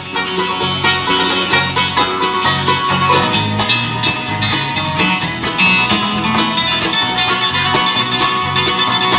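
Bluegrass band playing an instrumental break: rapid banjo picking over guitar and bass.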